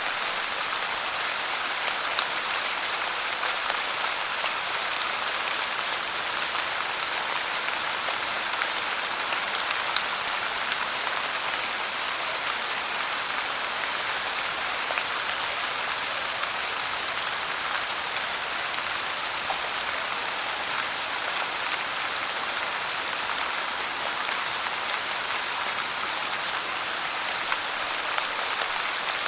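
Steady pouring rain: an even hiss of rain with small drops pattering on a surface.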